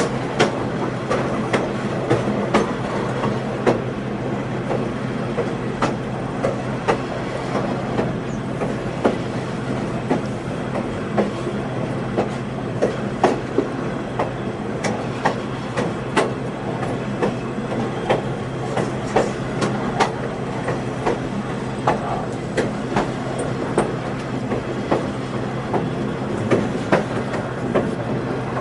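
Passenger train riding along the track, wheels clicking sharply over rail joints about every half second, over a steady low rumble and hum.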